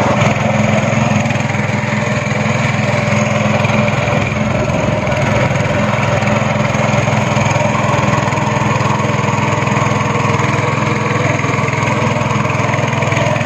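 Speedboat engine running steadily at an even pitch while the boat is under way.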